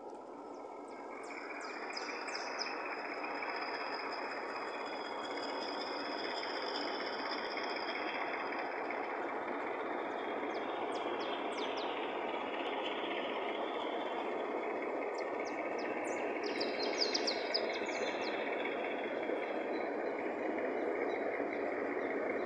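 Diesel locomotive and its train approaching. The steady running noise grows louder over the first two seconds and then holds, with short high squeaks in a few bunches, the loudest a bit past halfway.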